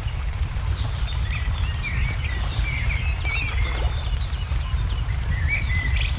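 Ambience of songbirds chirping in short warbling phrases over a wood fire crackling with scattered small pops, all above a steady low rumble.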